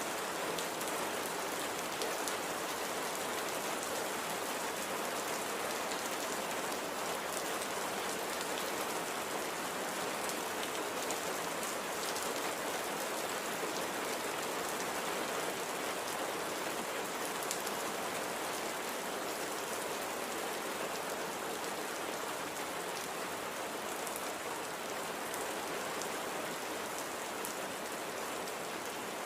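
Steady light rain falling on a surface, an even hiss with scattered fine drop ticks.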